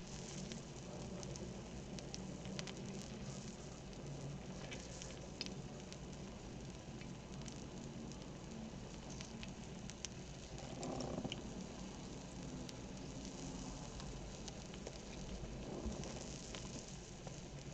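Pork belly sizzling in a pan, a steady fizzing scattered with small crackles and pops of spitting fat.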